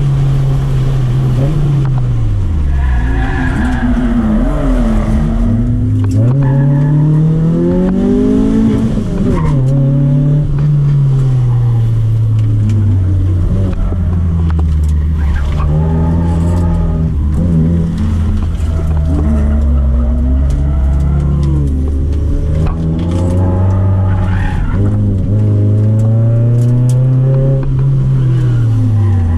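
Toyota AE111 Corolla's 1.6-litre 4A-FE twin-cam four-cylinder engine under hard driving, heard from inside the cabin. The revs climb and fall again and again as it accelerates out of corners, changes gear and lifts off for braking.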